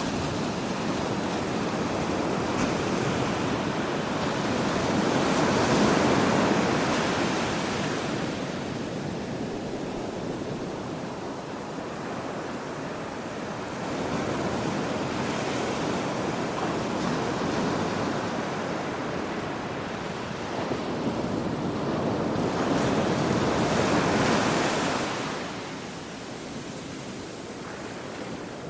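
Ocean surf: waves breaking and washing up the shore in slow surges that swell and fade. The bigger breakers come about six seconds in and again a little over twenty seconds in.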